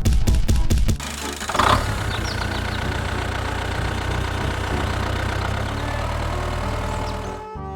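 Rapid loud clattering for about a second, then a small engine running steadily at idle.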